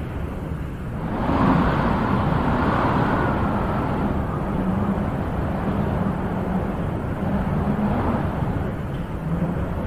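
Wind blowing in gusts, a steady rushing that swells about a second in and then slowly eases.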